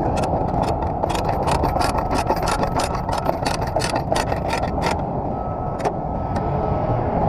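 Truck engine idling steadily, with a quick, irregular run of sharp clicks over it that dies out about five seconds in.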